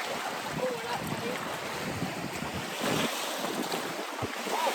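Wind buffeting the microphone over lake water lapping at the shore, a steady rushing noise.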